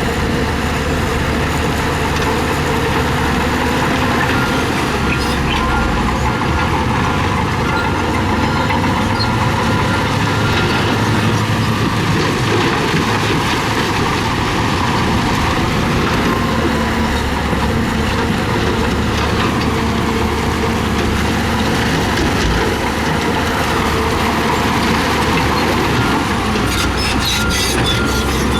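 Bulldozer's diesel engine running steadily under load as it pushes gravel, with the grinding rattle of stone and tracks and a burst of sharper clatter near the end.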